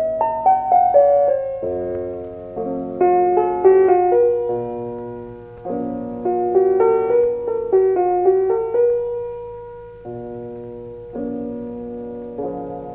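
Slow piano music: short melodic runs of a few notes alternate with struck chords that are left to ring and fade.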